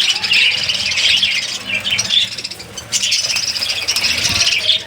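Budgerigars chattering and chirping nonstop in a dense, high twitter, with a brief lull about three seconds in.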